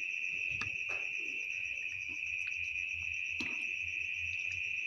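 Eating sounds from noodles and beef: a few short wet smacks and chews. Under them runs a steady high-pitched insect-like drone that is louder than the chewing.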